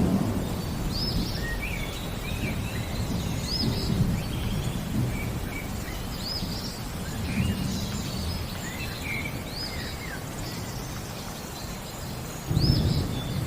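Birds singing over rain and low rolling thunder. One bird repeats a short high arched note about every two and a half seconds among other chirps, while thunder rumbles swell several times, the strongest near the end.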